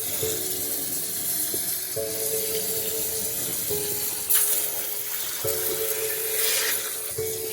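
Kitchen sink tap running steadily, water splashing into the sink as collard greens are readied for washing.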